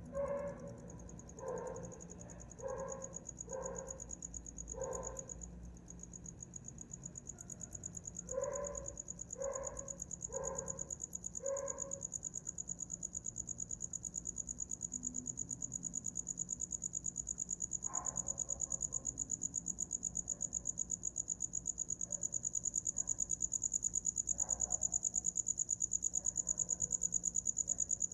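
A cricket chirping in a fast, steady, high-pitched trill that grows louder toward the end. A dog barks about ten times in the first twelve seconds and a few more times later.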